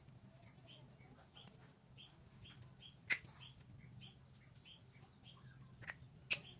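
A small bird chirping repeatedly in the background, short high chirps about three a second, over a low steady hum. Two sharp clicks stand out, one about halfway through and one near the end.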